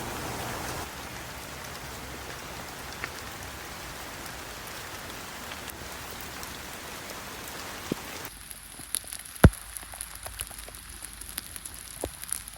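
Steady rain falling, an even hiss for the first eight seconds or so. Then the sound changes to scattered individual raindrops tapping close by, with a faint high-pitched hum underneath.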